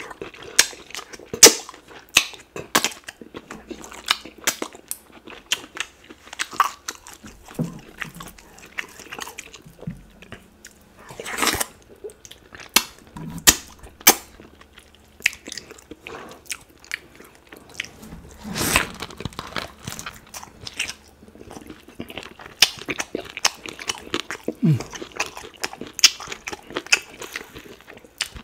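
Close-miked mouth sounds of eating duck meat coated in sticky ogbono soup: biting and chewing with many irregular sharp clicks and smacks.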